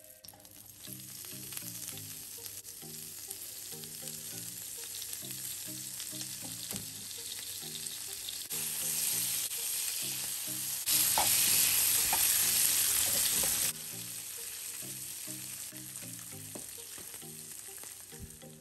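Baby spinach leaves sizzling in hot oil in a non-stick frying pan as they wilt, with light stirring from tongs. The sizzle swells louder around the middle and drops back suddenly a little later.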